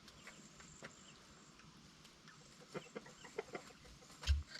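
Quail making a quick run of short, soft clucking calls, followed near the end by a single low thump.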